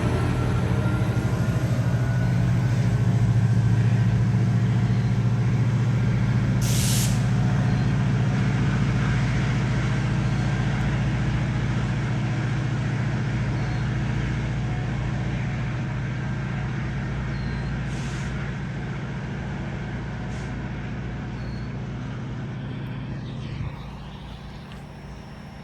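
GO Transit commuter train's diesel locomotive running with a steady low drone that slowly fades as the train moves off. Short hisses of air are heard about seven seconds in and again about eighteen seconds in.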